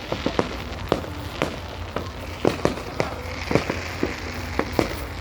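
Fireworks display going off: a rapid, irregular string of sharp bangs and pops, with a crackling hiss building up about three seconds in.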